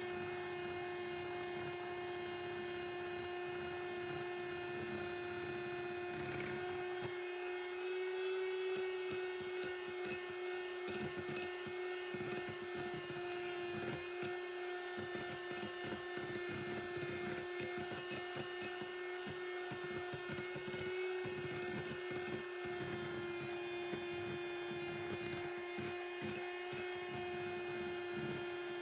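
Electric mixer running at a steady speed with a constant motor whine, whipping egg whites and sugar into meringue.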